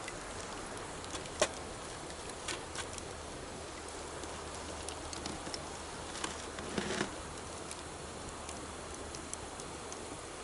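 Campfire crackling with scattered sharp pops, the loudest about a second and a half in and a short burst of crackles about two-thirds through, over the steady rush of a river.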